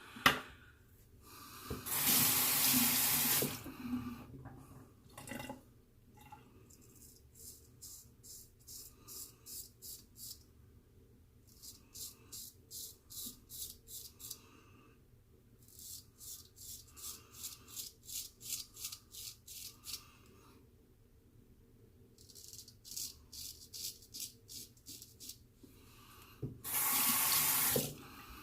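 A tap runs briefly, then a straight razor scrapes through several days' stubble in short strokes, about two a second, in four runs with pauses between. The tap runs again near the end.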